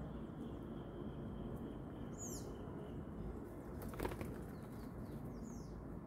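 Birds in a backyard: two short, high call notes that fall in pitch, about two seconds in and near the end, and one brief sharp sound about four seconds in, over steady low background noise.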